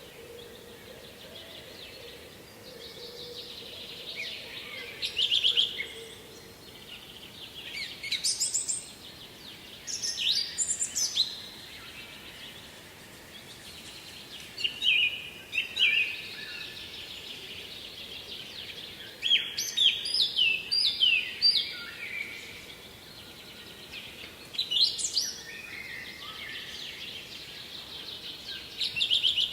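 A songbird singing short, bright warbling phrases, one every few seconds, over a faint steady rush of water from the waterfall.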